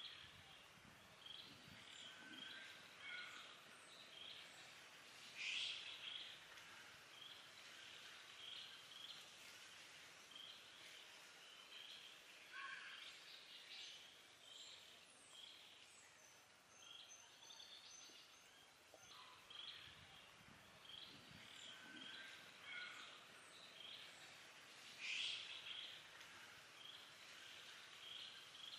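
Faint forest ambience: short, high chirps repeating about once a second, with two louder, higher calls, one about five seconds in and one near the end.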